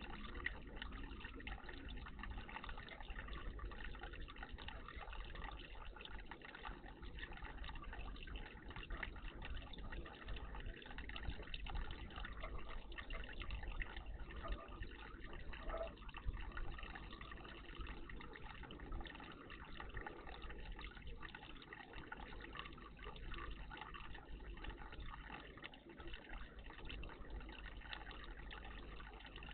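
Steady trickle of running water in a bird bath.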